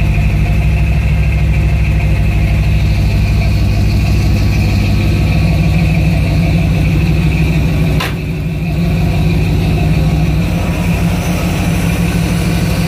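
Big-cam 496 big-block Chevrolet V8 (a 454 with a stroker kit) idling steadily, kept running to bring it up to operating temperature. A single sharp knock about eight seconds in.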